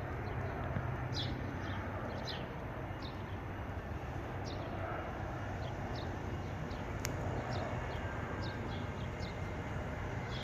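Steady low rumble of a Boeing 737-800's CFM56-7B turbofan engines during takeoff, heard from a distance, with scattered short high chirps throughout.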